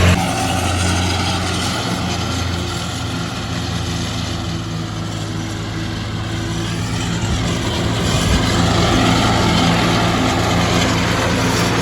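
Old Ford tractor engine running at a steady speed.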